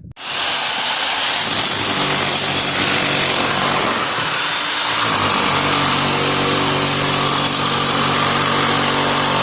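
Rotary hammer chiselling into a masonry wall to open a hole for a chimney flue. It runs continuously with a steady motor whine over dense hammering noise.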